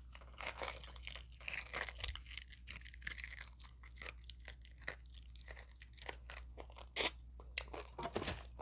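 Close-miked chewing of KFC extra crispy fried chicken, with irregular crunches and crackles of the breading, one louder crunch near the end.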